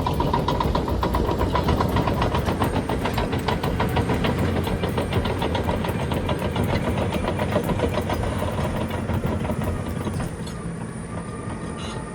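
Heavy diesel engine of earth-moving equipment running, with a fast, even clatter; it eases off a little near the end.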